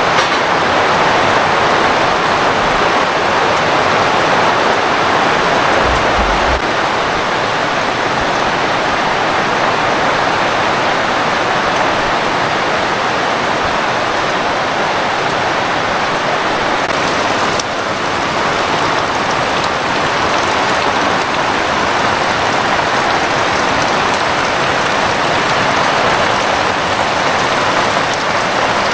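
Heavy rain falling steadily, a dense even hiss of drops, with a few brief low thumps about six seconds in.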